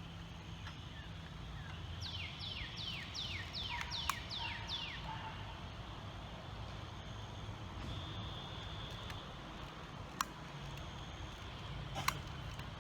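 A bird singing a quick run of about eight notes, each sliding down in pitch, a couple of seconds in. A few sharp clicks come later, over a steady low outdoor background.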